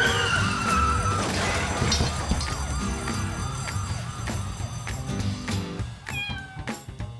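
Cartoon soundtrack: music under squeaky, wavering sound effects, a high tone falling at the start, then a rapid run of little rising-and-falling pitch arcs about four a second.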